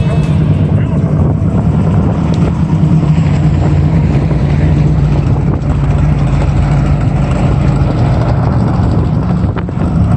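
A car engine running loudly close by at low speed: a steady, deep note with a fast pulse, as the car rolls slowly past.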